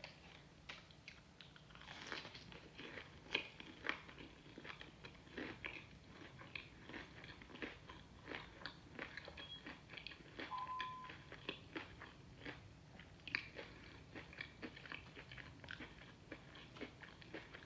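A person biting and chewing crunchy fried food close to the microphone: a steady run of faint, crisp crunches and chewing clicks.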